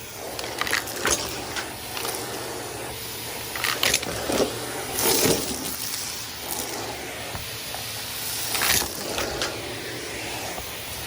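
Henry cylinder vacuum cleaner running and sucking up crunchy debris, with irregular rattles and crackles as bits are drawn up the hose.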